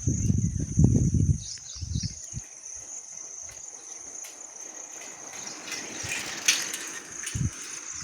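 A steady, high-pitched chorus of insects trilling, in the manner of crickets. Loud low rumbling bursts come during the first two seconds, and a single low thump comes near the end.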